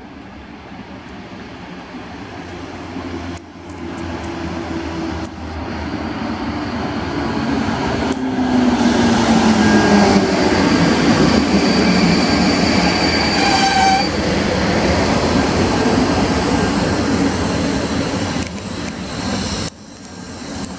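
PKP Intercity EP09 electric locomotive and its passenger coaches arriving at a station platform, growing louder as they pass close by. A hum falls in pitch as the train slows, and thin high brake squeals sound about ten to fourteen seconds in.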